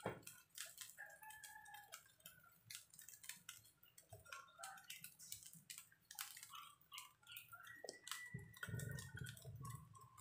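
Fried rice faintly crackling in a hot frying pan: scattered small pops and ticks.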